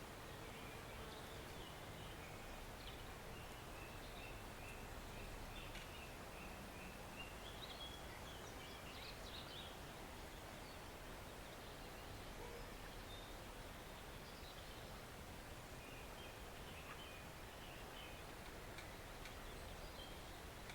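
Steady, faint rush of a small forest stream, with birds calling lightly over it: a run of short repeated notes in the first several seconds, a few chirps about halfway through, and more near the end.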